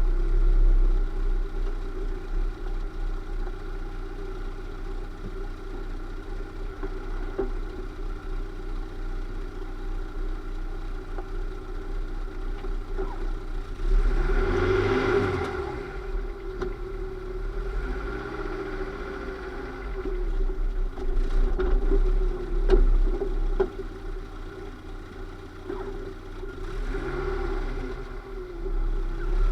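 Lada Niva running with a steady drone from its engine and drivetrain, rising and falling in pitch three times as the revs change: a little under halfway in, about two thirds in, and near the end. The noise comes from a transmission making an abnormal sound.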